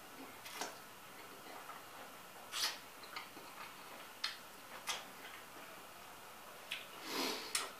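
A person eating, with irregular wet mouth clicks and smacks from chewing and lips, about eight of them spaced unevenly over the seconds.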